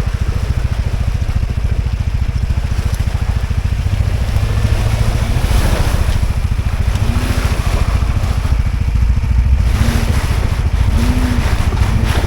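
Off-road 4x4 engine running hard under load with a few short revs as it tries to climb out of a hole, wheels spinning and scrabbling in the dirt. The front wheels seem not to be driving, leaving the rear wheels to spin.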